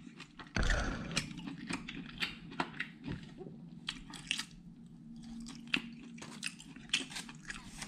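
Close-up eating sounds: a man biting satay meat off a bamboo skewer and chewing with the mouth open, wet smacks and clicks coming several times a second.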